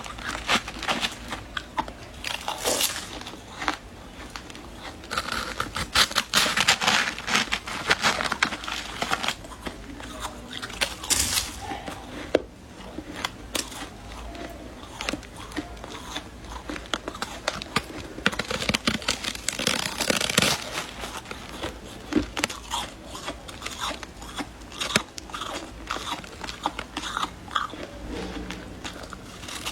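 A person biting and chewing shaved, refrozen ice, with dense crunching and crackling in repeated bouts.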